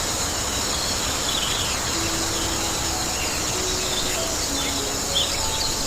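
Outdoor nature ambience: birds chirping over a steady high insect drone. Soft, slow held music notes come in about two seconds in.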